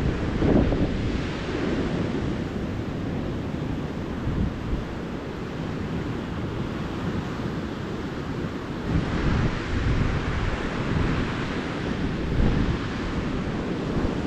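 Ocean surf breaking and washing up a beach: a continuous low rush with waves swelling just after the start and again from about nine seconds in, when the hiss of the wash grows brighter.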